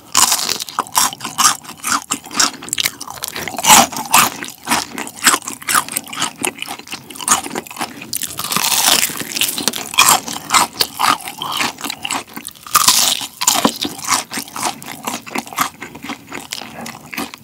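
Close-miked crunching and chewing of crispy fried-chicken batter, BBQ Golden Olive chicken's fried coating broken up between the teeth: a dense, uneven run of crisp crunches with a few louder ones along the way.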